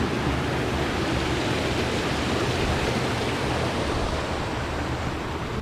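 Heavy rain falling steadily in a downpour, an even rushing hiss.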